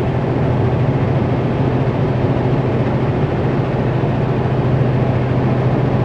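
Kenworth W900L semi truck's diesel engine droning steadily at highway speed, heard inside the cab along with road noise.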